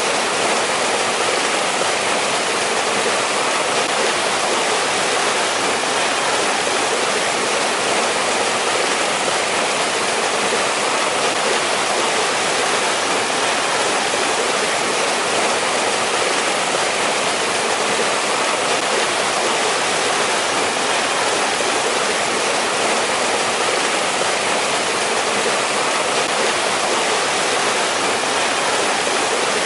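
Mountain valley stream flowing steadily over rocks: an even, full rush of water with no breaks or changes.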